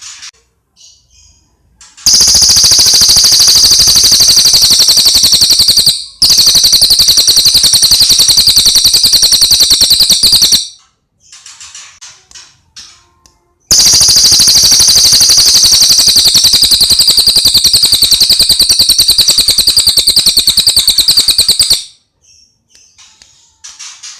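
A songbird's very loud, high, fast-rattling trill, held for about eight seconds, then again for about eight more after a short pause. Soft short chirps come in between.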